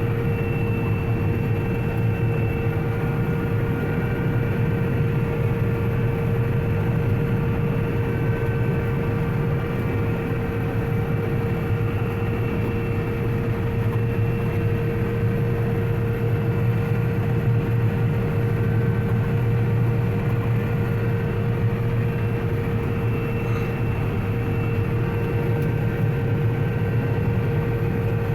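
Combine harvester running steadily while cutting wheat: a constant machine drone with a steady whine over it.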